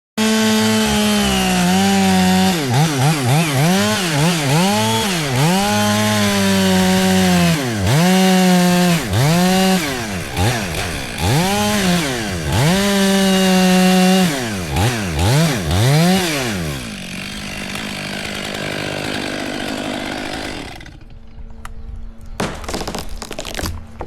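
Chainsaw cutting into a large tree trunk, its engine at high speed, the pitch dipping and recovering again and again as the cut loads it. About 17 seconds in the saw drops away to a quieter rushing sound, and a run of sharp cracks and knocks follows near the end.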